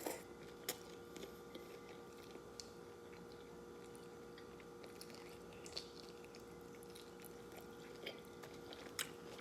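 A person chewing chicken wings, with a few short clicks and mouth sounds scattered through it, over a faint steady background hum.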